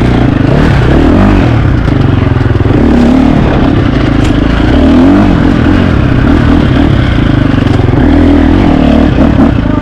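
KTM 350 XC-F four-stroke single-cylinder dirt bike engine revving hard, its pitch climbing and dropping again and again as the rider works the throttle and gears.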